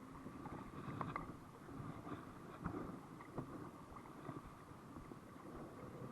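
Outdoor rumble of wind on the microphone and water around a kayak, with a few light knocks about a second in and again near the middle.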